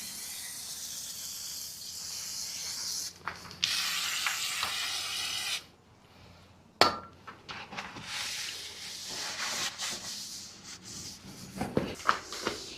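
A rag wiping down the shaper's surfaces, giving a steady rubbing hiss in stretches that start and stop abruptly, with a sharp knock about seven seconds in.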